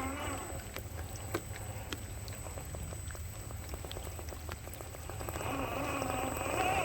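RC4WD Gelande 2 scale crawler truck driving through a river: water splashing and trickling with scattered clicks, then from about five seconds in an electric motor whine whose pitch rises and falls with the throttle.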